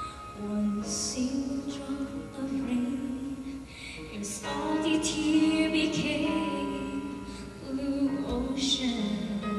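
A teenage girl singing a slow worship song over instrumental accompaniment, holding long notes.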